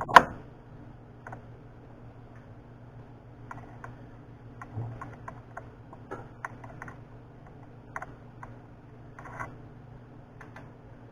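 Tool holders being handled on a lathe's quick-change tool post: one sharp metal clack just after the start, then scattered light clicks and taps.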